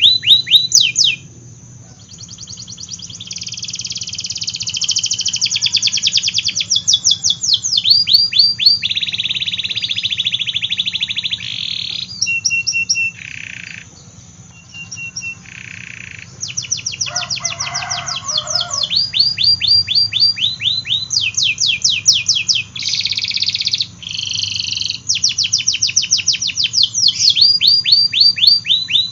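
Domestic canary singing: a long, varied song of fast repeated rising notes and rolling buzzy trills, high-pitched and broken by short pauses. A faint low hum runs underneath.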